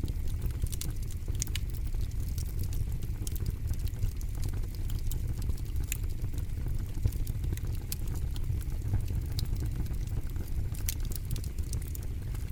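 Campfire burning with a steady low rumble and frequent sharp crackles and pops from the burning wood.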